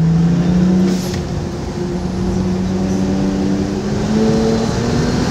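Car engine at full throttle on a race track, heard from inside the cabin. Its pitch climbs, breaks and drops about a second in as it changes up a gear, then climbs slowly again and grows louder near the end.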